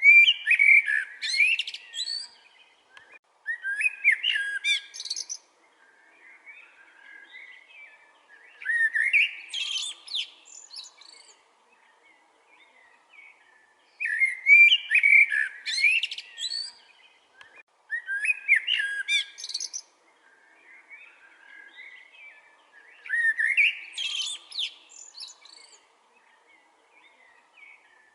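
A songbird singing: phrases of rapid chirps and whistled notes, each about two seconds long, repeating every four or five seconds, with fainter calls between them.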